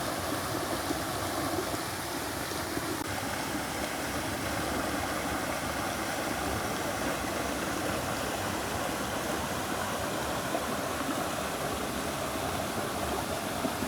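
Steady rush of spring water flowing and splashing over a small waterfall.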